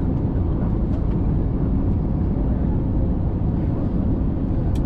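Steady low rumble of an IndiGo airliner during its landing, with a faint steady hum and a brief click near the end.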